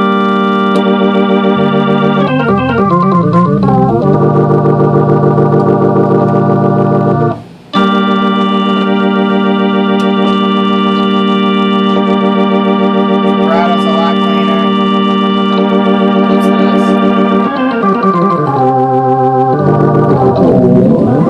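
Hammond A-100 tonewheel organ playing loud, held chords, with a short break about seven seconds in and a few passages where the notes waver and move.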